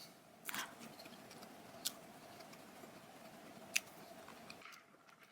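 Faint chewing of a soft, moist chocolate chunk pound cake, with a short soft noise about half a second in and two small clicks near two and four seconds.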